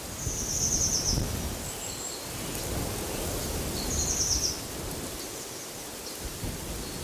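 Wind gusting, with a low rumble on the microphone, while a small songbird sings two short high trills of rapid repeated notes, one near the start and one about four seconds in.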